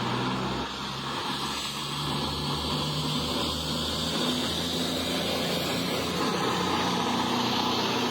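CrossCountry Voyager diesel multiple unit running at the platform, its underfloor diesel engines making a steady low drone over a broad hiss.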